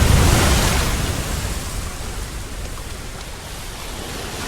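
Ocean surf breaking against shoreline rocks: a loud surge of crashing water peaking in the first second, then a long fading rush of water.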